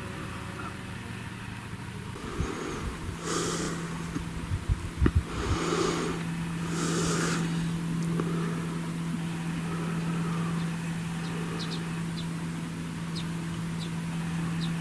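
A motor hum, steady in pitch, starting about two seconds in, with several short bursts of hiss in the first half.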